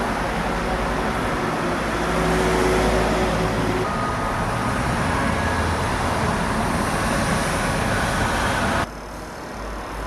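Road traffic: a steady wash of passing vehicles, which cuts off suddenly near the end into quieter background noise.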